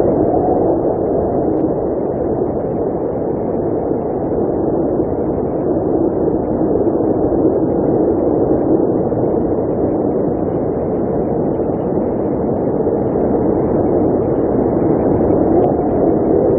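Blizzard wind blowing steadily, a continuous low, dull rush with no let-up.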